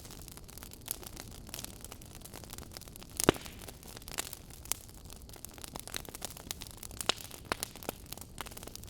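Wood fire burning in a fireplace: a low steady hiss with irregular crackles and pops, the loudest pop about a third of the way in.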